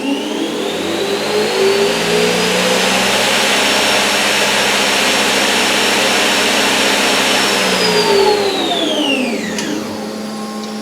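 Spindle of a 2004 Haas SL-20T CNC lathe spinning up to 4,000 RPM with a rising whine, running steady for several seconds, then winding down to a stop near the end.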